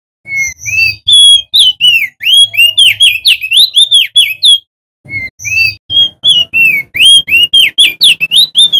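Male opior jambul songbird singing loudly in two long runs of rapid, sliding whistled notes, about four or five notes a second, with a short pause about halfway.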